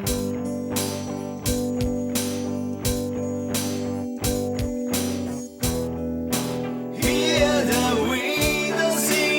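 Band music in an instrumental passage: drums keeping a steady beat under bass and sustained guitar chords. About seven seconds in, a wavering lead melody comes in over them.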